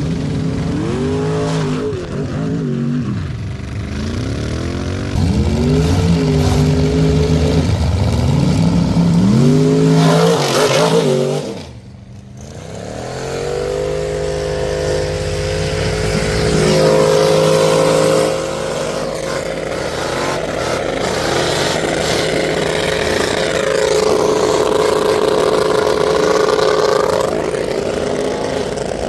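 Truck engines revving hard, rising and falling in pitch several times. After a brief drop, they are held at high, slowly climbing revs as two trucks pull against each other at full throttle.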